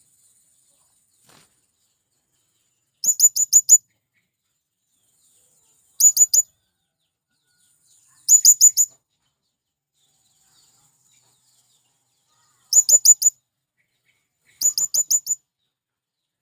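Male blue-crowned hanging parrot (serindit) calling: five quick volleys of three to five shrill, very high, sharp notes each, spaced a few seconds apart.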